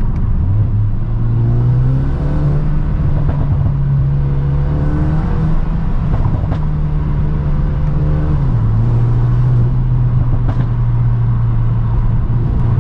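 Mercedes-AMG A35's turbocharged 2.0-litre four-cylinder engine and exhaust pulling at moderate speed, heard from the cabin with the windows open. The engine note rises about a second in, holds steady, then drops in pitch about eight seconds in. The exhaust's rear silencer (back box) has been removed to make it louder, and the engine runs a stage 1 tune.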